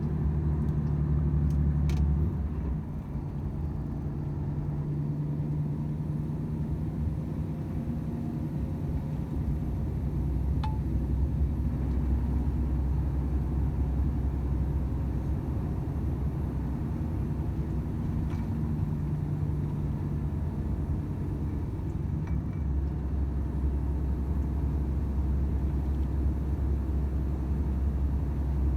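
Volvo FH 500 truck's diesel engine running on the road as a steady low drone. Its note drops about two and a half seconds in and comes back strong near the end, with a few faint clicks and one short ping along the way.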